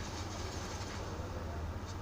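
Steady low rumble of a moving vehicle heard from inside, a constant deep hum with an even hiss of running noise over it.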